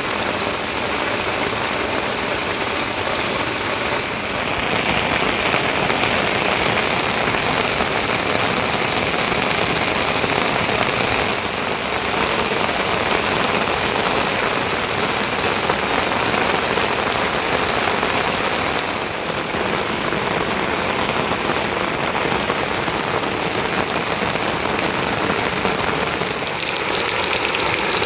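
Rain falling steadily, an even noise with no breaks.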